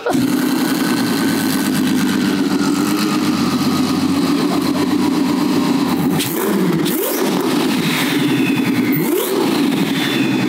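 Twin-turbocharged Ferrari F12 V12 running at idle, with short blips of the throttle about six seconds in and again near nine seconds, each followed by a faint falling whistle.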